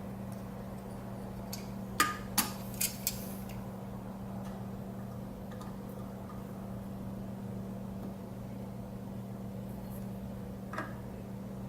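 Small metal parts clicking and clinking as they are handled and fitted into an outboard lower unit: four sharp clicks close together about two seconds in and one more near the end, over a steady low hum.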